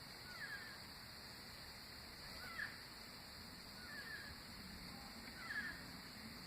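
An animal calling in short raspy bursts roughly every second and a half, over a steady high-pitched background drone.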